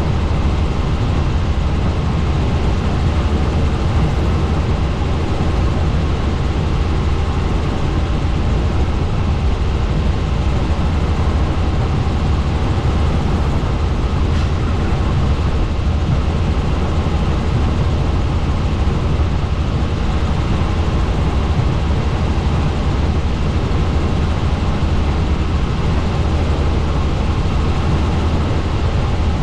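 Helicopter in flight: loud, steady engine and rotor noise with a strong low rumble.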